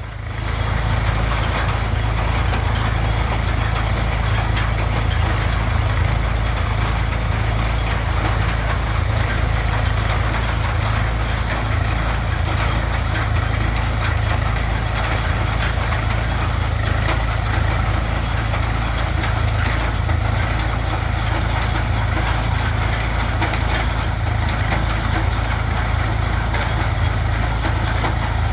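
Swaraj 735 FE tractor's three-cylinder diesel engine running steadily at a constant low speed.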